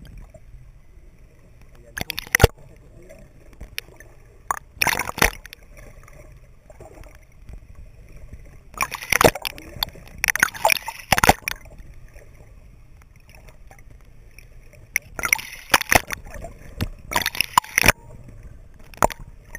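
Water sloshing and splashing around a camera held just under the surface, in irregular bursts over a low steady hiss.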